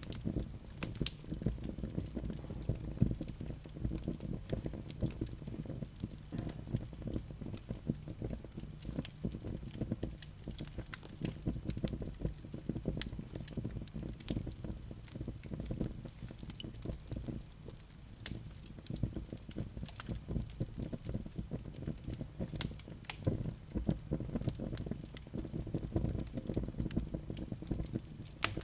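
Wood fire burning in a fireplace: a low steady rumble of the flames with frequent sharp, irregular crackles and pops from the burning logs.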